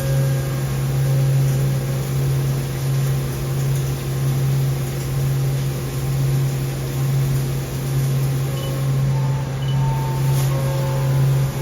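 Haas VF2 CNC vertical machining center running with a steady low hum while a 2 mm end mill cuts keyways in a steel pump shaft. A few higher tones come and go in the last few seconds.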